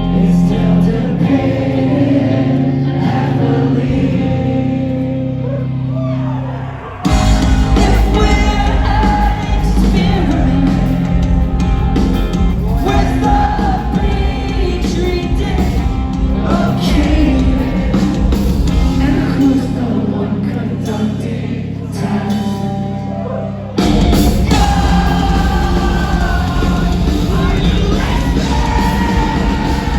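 Live rock band playing with sung vocals. A lighter passage gives way to the full band coming in hard about seven seconds in; the band breaks briefly once more near the end and then crashes back in.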